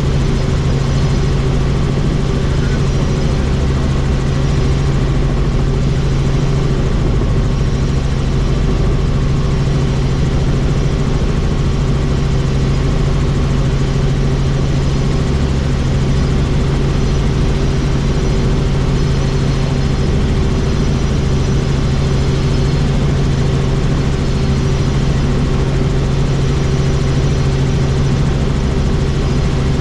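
Helicopter engine and rotors running steadily in cruise, heard from inside the doors-off cabin with the rushing airflow of the open doors, a constant loud drone with a strong low hum.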